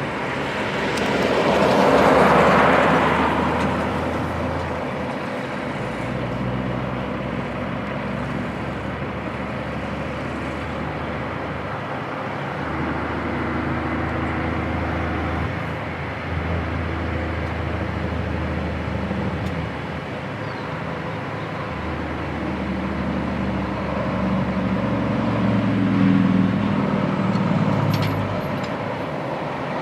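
Heavy diesel truck engines running and revving, the pitch stepping up and down several times, with a loud rush of noise about two seconds in.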